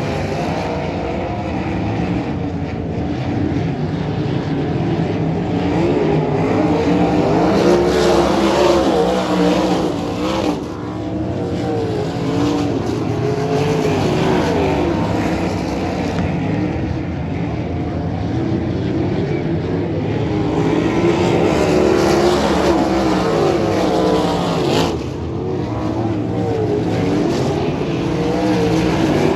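Sprint car V8 engines racing in a pack, the engine note rising and falling as the cars accelerate and lift around the track. It swells louder as cars pass close about eight and twenty-two seconds in.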